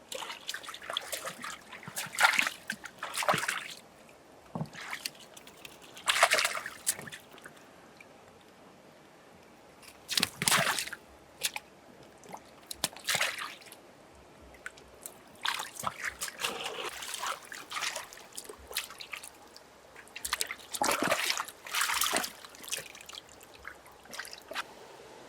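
Water splashing and sloshing in irregular bursts, about six spells a few seconds apart, with quiet trickling between them.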